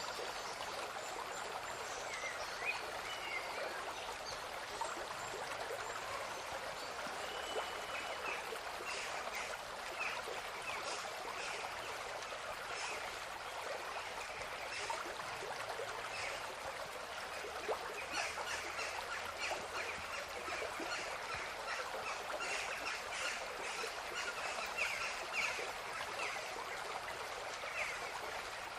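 Steady rushing of a stream, with short bird calls chirping over it again and again, more often from about nine seconds in.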